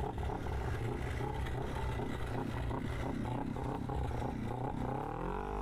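Motorcycle engine running with a steady low rumble, rising in a rev near the end.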